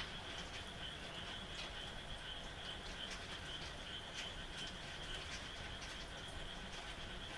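Night chorus of frogs calling in a steady high trill, over falling rain with scattered drip clicks.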